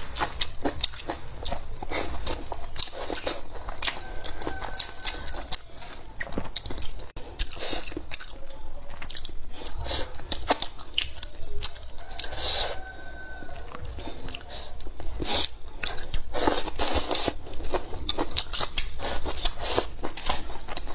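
Close-miked chewing and crunching of a mouthful of stir-fried tiger-skin green chili peppers with fermented black beans and century egg: irregular wet crunches and mouth clicks.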